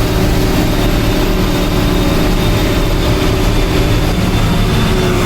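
Truck engine running steadily while the truck drives, with continuous road and rumble noise.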